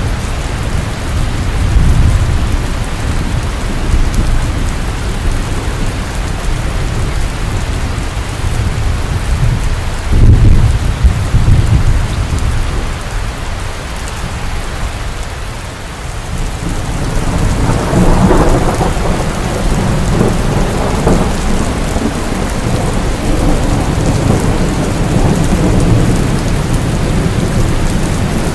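Steady rain falling, with rolling thunder rumbles swelling up several times; the loudest rumble comes about ten seconds in.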